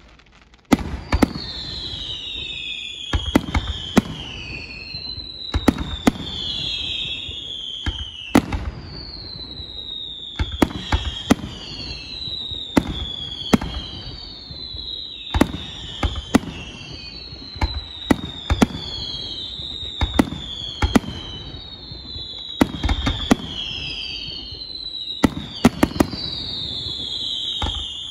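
Aerial fireworks shells bursting in sharp bangs every second or two, with a low rumble between them. Over these, a whistle falling in pitch recurs about every two to three seconds.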